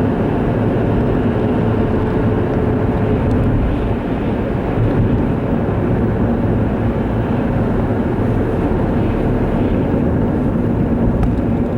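Strong windstorm gusts, around 50 mph, buffeting the microphone with a loud, steady low rumble.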